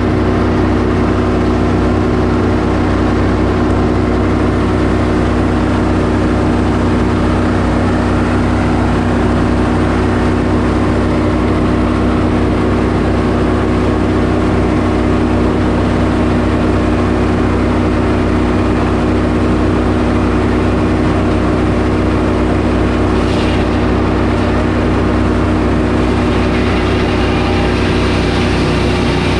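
Sawmill engine running steadily at a constant speed, with a brighter hiss joining in near the end.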